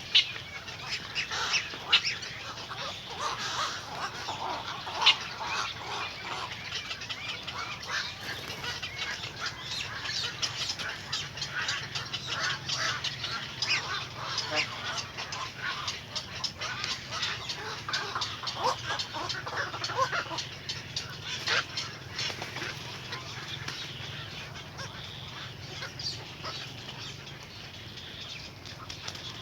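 Birds calling: a busy run of short chirps, with a few sharp louder clicks in the first few seconds.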